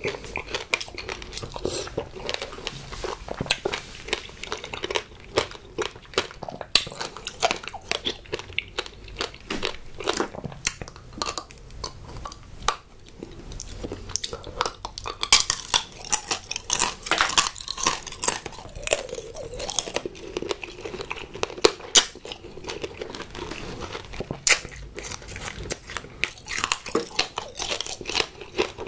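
Close-up crunching and chewing of tanghulu, fruit coated in a hard, glassy sugar shell: the candy coating cracks in many sharp crackles between wet chewing.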